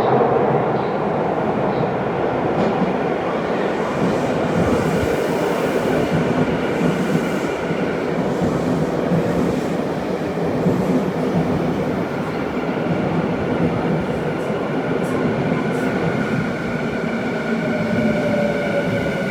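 Y500 series electric train pulling into an underground station: a continuous rumble of wheels on rail, with the steady whine of the traction motors over it.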